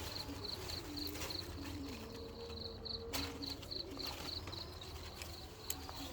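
Outdoor ambience: a high-pitched chirp repeating evenly about four times a second, from a calling insect or bird, over low wavering tones, with a sharp click about three seconds in.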